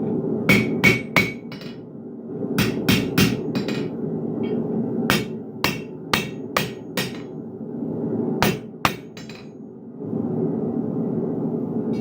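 Blacksmith's hammer striking steel on an anvil: about fifteen ringing blows in four short runs with pauses between, over a steady low background noise.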